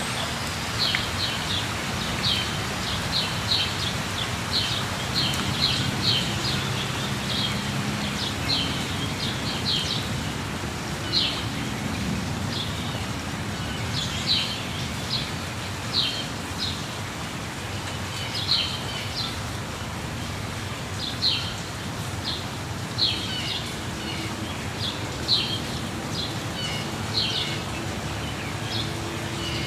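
Waterfall rushing steadily, with birds chirping over it in short high calls, thick and fast in the first part and then about every two seconds.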